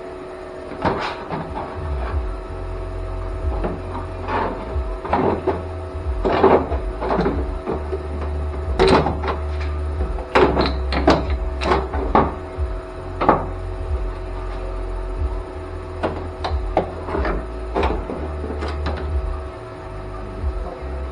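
Sheet-metal body panel being handled and fitted into place on a car: irregular clunks, taps and rattles of thin steel, busiest in the middle, over a steady low hum.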